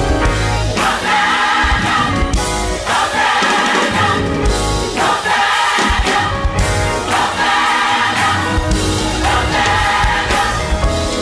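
Gospel choir singing with a band accompanying.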